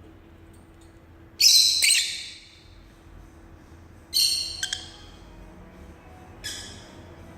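Pet lovebird giving loud, shrill calls in three bursts, a double call about a second and a half in, then calls about four and six and a half seconds in.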